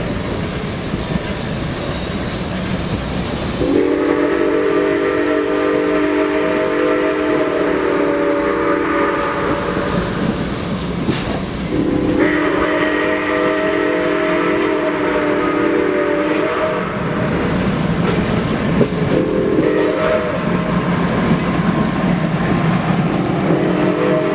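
Nickel Plate Road steam locomotive's chime whistle blowing the grade-crossing signal over the train's running rumble: two long blasts, a short one, then a long one starting near the end. A steady hiss comes before the first blast.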